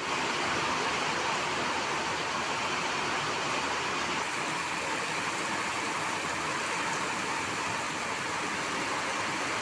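Very heavy rain pouring down steadily, an even, unbroken hiss.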